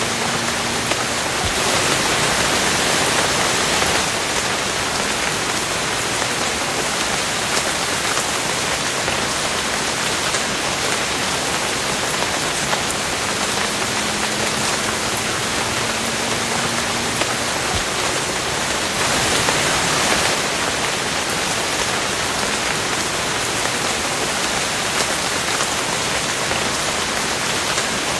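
Steady rain falling, an even hiss that swells a little louder twice.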